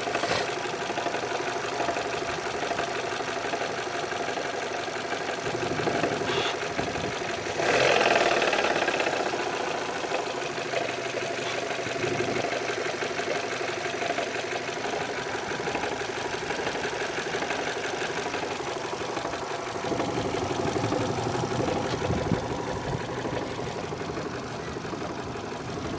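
Hyundai i10's 1.1-litre engine running at idle, with the noise that the owner calls an engine sound problem. It gets suddenly louder about eight seconds in, then settles back over a couple of seconds.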